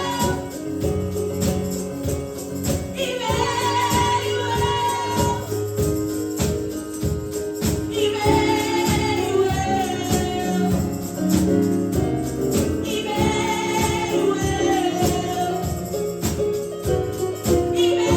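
Praise-and-worship music: singers in phrases with pauses between them, over sustained chords and a steady beat.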